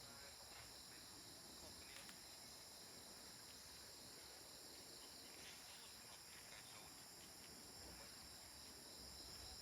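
Near silence with a faint, steady high-pitched insect chorus, like crickets, and a few faint ticks.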